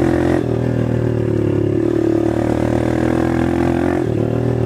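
A small 125 cc dirt bike engine with a stock exhaust, running steadily under way with the engine note holding even. The note dips briefly about half a second in and again near the end.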